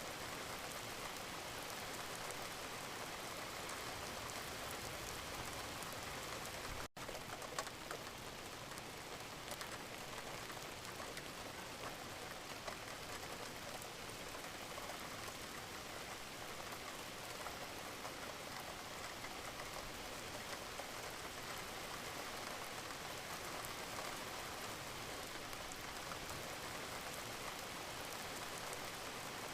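Gentle rain falling steadily, a smooth even hiss of drops on surfaces, with a momentary dropout about seven seconds in.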